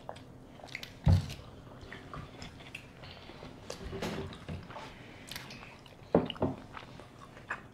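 Close-miked chewing and biting of soft donuts, with small wet mouth clicks. A dull thump sounds about a second in, and two sharper knocks a little after six seconds.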